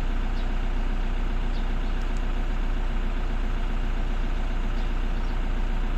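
Toyota 2KD four-cylinder turbodiesel idling steadily, running with its P0340 camshaft position sensor fault cleared.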